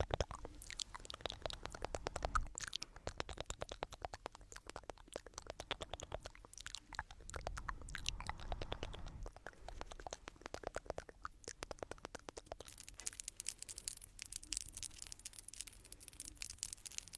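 Close-miked crackling scratches and clicks, dense and irregular, with a brighter hissing rub near the end.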